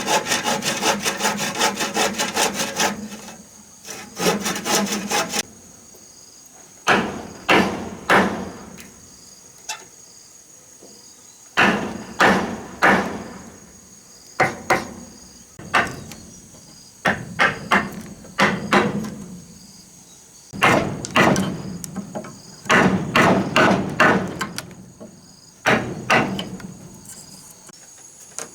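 Hand-tool blows on timber, landing in groups of two to four with short pauses between, after a rapid run of strokes over the first three seconds. A steady high insect drone runs underneath.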